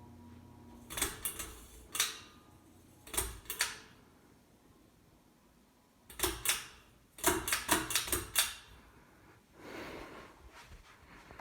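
A series of sharp clicks and knocks in short groups, the busiest a quick run of about a dozen. About a second in, a steady electrical hum, which the owner puts down to the Harbor Breeze Armitage ceiling fan, cuts off.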